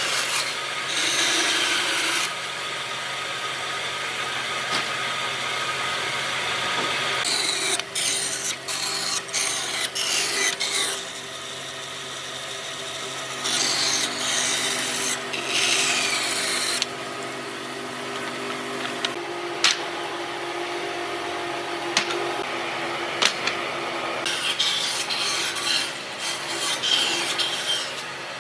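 Power tool working wood, its motor running steadily, with several stretches of louder cutting or abrading noise and a few sharp clicks in the quieter spells.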